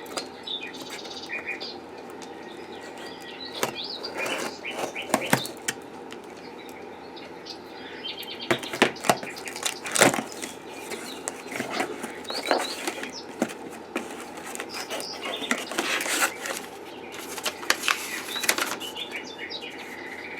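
Packaging rustling and crinkling as a parcel is unwrapped, with scattered sharp clicks and knocks, busiest about halfway through and again near the end. Birds chirp faintly in the background.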